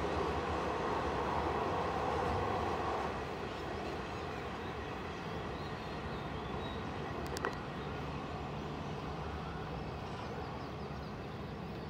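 Diesel-hauled passenger train running along the track away from the listener: a steady rumble of engine and wheels that drops a little about three seconds in. A single sharp click about halfway through.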